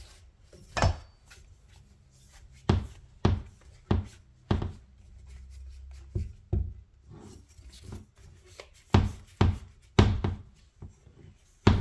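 Irregular knocks and clacks from hands handling a folding mini trampoline's frame, about a dozen sharp hits spaced unevenly, with faint rustling between them.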